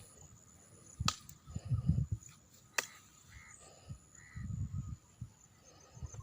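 Outdoor village ambience: a crow cawing a few times in short rasping calls. Two sharp clicks and some low muffled bumps on the microphone, the loudest about two seconds in, come through alongside.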